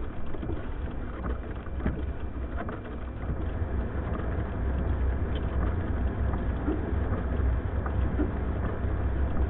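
Blizzard wind buffeting a car, heard from inside the cabin: a steady low rumble with a patter of blowing snow ticking against the body.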